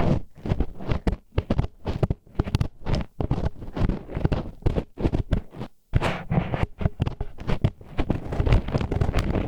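Disposable wooden chopsticks used as an ear pick, scraping and grinding against the ear wall of a binaural ear microphone in quick, irregular scratchy strokes with a few brief pauses.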